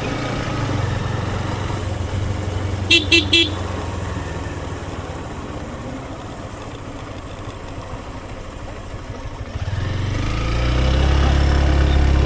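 Motorcycle engine running on the move, with three quick horn beeps about three seconds in. The engine drops back for several seconds, then picks up and runs louder near the end as it accelerates.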